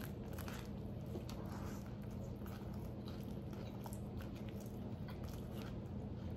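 Close-up eating sounds of biting into and chewing a Nashville hot chicken sandwich on a bun: scattered crunchy, wet mouth clicks, over a steady low hum.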